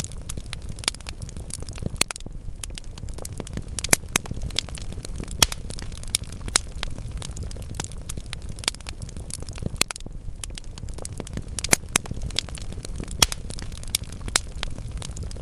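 Wood logs burning in a fireplace, crackling with frequent sharp pops over a steady low rumble of the flames.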